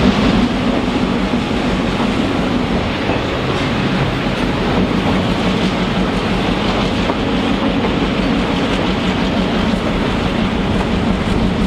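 Excursion train running on the rails, heard out an open window of a moving car: a steady rumble of wheels on track with a low drone, continuous and even throughout.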